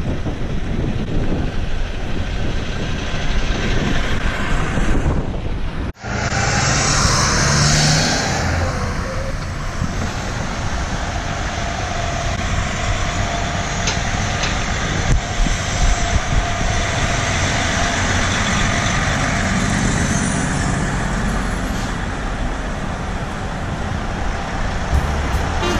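City street traffic dominated by a tractor-trailer truck's engine running. About six seconds in the sound cuts out for an instant, then a loud hiss lasts for about two seconds.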